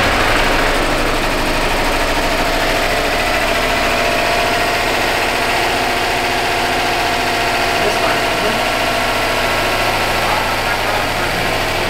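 Subaru Legacy's turbocharged flat-four boxer engine idling steadily.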